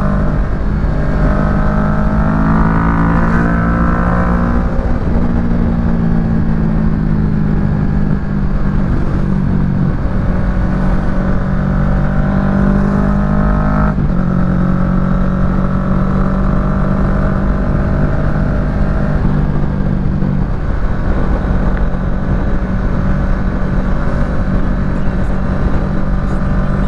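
Kawasaki Ninja 650 parallel-twin engine running through a Yoshimura full exhaust while riding at steady speed. Its pitch holds steady, then shifts a few times with throttle or gear changes, most sharply about halfway through, over constant wind rumble.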